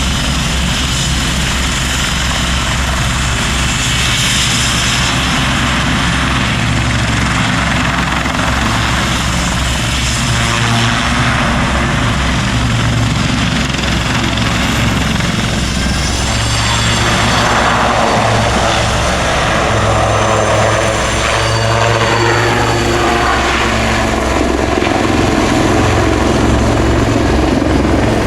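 Westland Super Lynx Mk95 helicopter in flight: a steady rotor beat under turbine noise, growing a little louder and taking on a sweeping, shifting tone over the second half as it passes closer.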